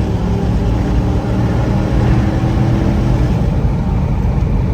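Lexus GX470's 4.7-litre V8 running through a new Magnaflow overland exhaust, a steady low exhaust note. Real quiet, it sounds much like the stock exhaust.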